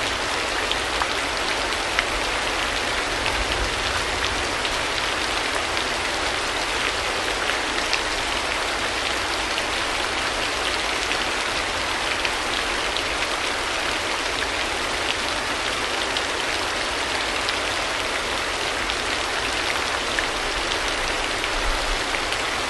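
Steady rain, an even hiss dotted with many small, sharp drop ticks, unchanging throughout.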